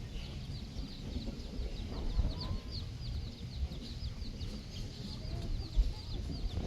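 Baby chicks peeping steadily, a rapid stream of short, high, falling chirps, with a few low clucks from the mother hen. Wind rumbles and buffets the microphone underneath.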